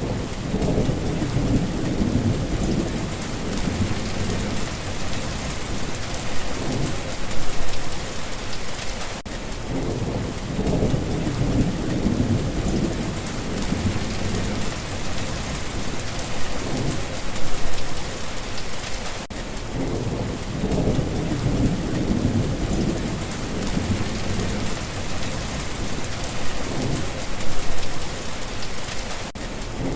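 Steady rain falling, with low rumbles swelling and fading underneath, the loudest swell coming about every ten seconds. The recording loops about every ten seconds, with a brief dip at each join.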